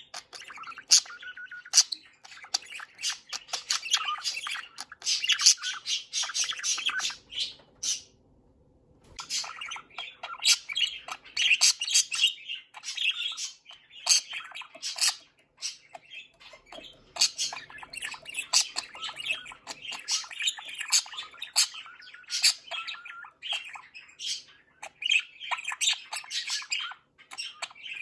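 Budgerigars chattering: rapid warbling, chirps, clicks and squawks, with a short pause about a third of the way through.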